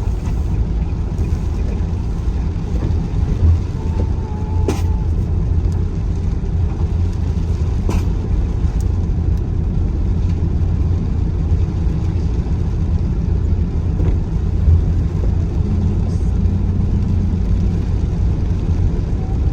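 Steady low rumble of a car's engine and tyres heard from inside the cabin while driving, with a couple of brief clicks about five and eight seconds in.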